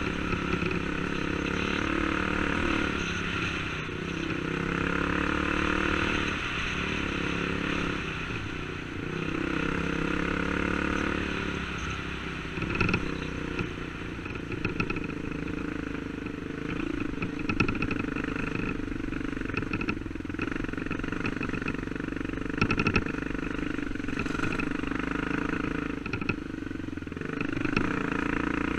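Dirt bike engine running under way on a rough trail, its note rising and falling with the throttle, with several sharp clattering knocks over the second half.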